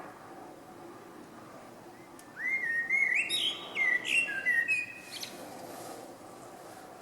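A small songbird singing one phrase of clear whistled notes that step up and down in pitch. It starts about two and a half seconds in and lasts nearly three seconds.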